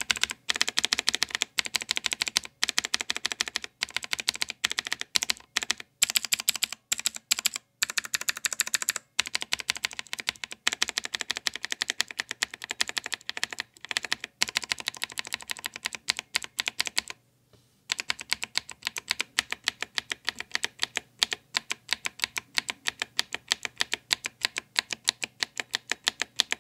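Rapid typing on a Gamepower Overlord mechanical keyboard with clicky blue switches, several of them lubed with Vaseline and hand cream. The key clicks come in a fast, steady stream, pausing briefly past the middle.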